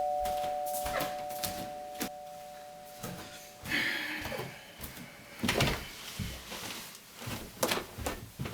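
Doorbell chime tones ringing out and fading away over the first three and a half seconds, followed by a few scattered light knocks and clicks.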